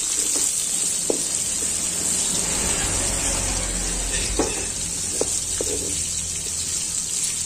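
Chopped onion and whole spices sizzling in hot mustard oil in a metal kadhai. A perforated steel spoon scrapes and clinks against the pan a few times as it stirs.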